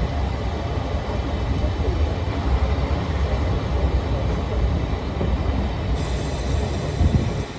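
Old-style passenger coach rolling on the rails, a heavy low rumble with rattling noise above it. A steady high hiss sets in about six seconds in, and the rumble falls away just before the end.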